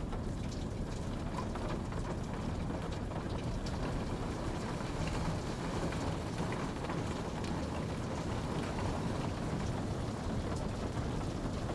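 Steady rain falling, an even rushing hiss with scattered drop ticks.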